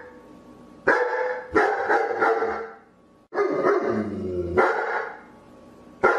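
Dog barking repeatedly in irregular bursts, about five barks, with one longer, deeper call in the middle.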